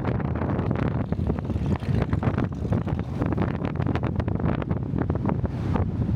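Wind buffeting the microphone of a moving car, over a steady low road rumble, with irregular crackles throughout.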